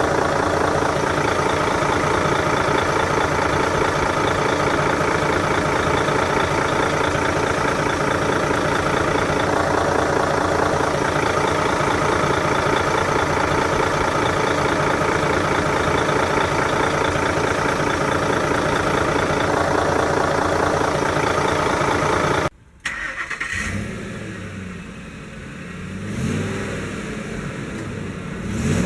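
Truck engine running loud and steady; after an abrupt cut, an engine is revved three times, each rev rising in pitch.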